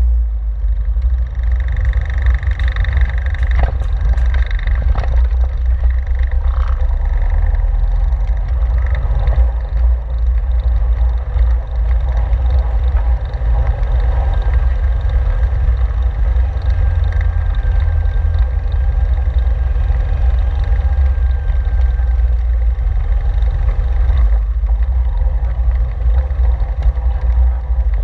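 Caterham 7's engine running at low speed, a steady low rumble heard from the open cockpit as the car creeps onto a ferry's car deck. A few sharp knocks a few seconds in.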